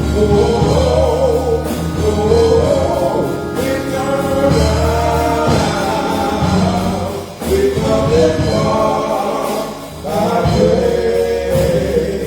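Gospel music: a choir singing over instrumental accompaniment with a steady bass, with short pauses between phrases.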